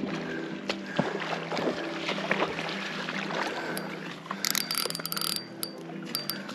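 Water splashing and sloshing with scattered sharp knocks as a hooked catfish is brought to the net, with a brief burst of hissy splashing about two thirds of the way through.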